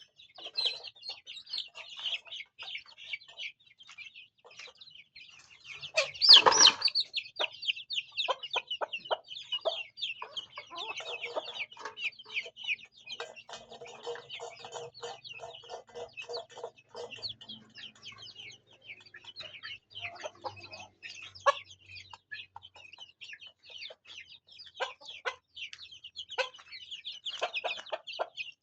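Domestic chickens: a steady chorus of high chick peeps with hens clucking in between, one run of rapid clucks near the middle, and a single louder burst about six seconds in.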